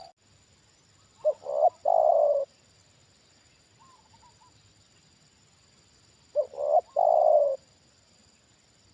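Spotted dove (tekukur) cooing: two calls about five seconds apart, each two short notes followed by a longer one, with a faint short call between them.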